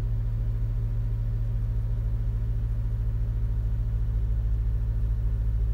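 2008 Honda Civic Si's 2.0-litre four-cylinder engine idling steadily at about 1,500 rpm, heard from inside the cabin.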